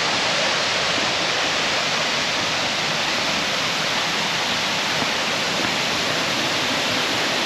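Sgwd yr Eira waterfall: a steady rush of falling water, even and unbroken throughout.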